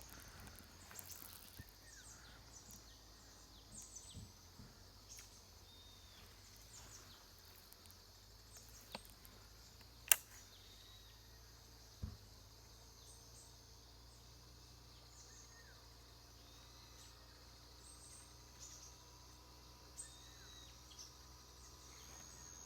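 Quiet outdoor ambience with scattered short, high bird chirps, a sharp click about ten seconds in and a duller knock about two seconds later.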